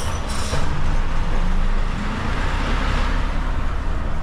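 Lorry's diesel engine running steadily, with a short hiss right at the start.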